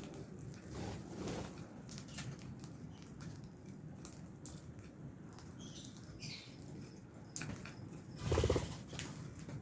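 Lovebirds moving about a cage: scattered clicks and scratches, a couple of short high chirps just past the middle, and a louder brief flutter of wings a little before the end.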